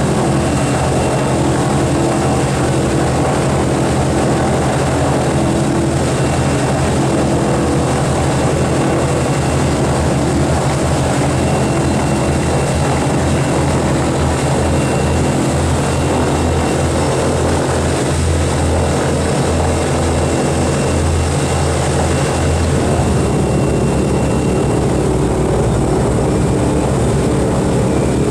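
Boeing B-29 Superfortress's four Wright R-3350 radial engines running with their propellers turning: a loud, steady, throbbing drone. The beat of the low throb changes about 23 seconds in.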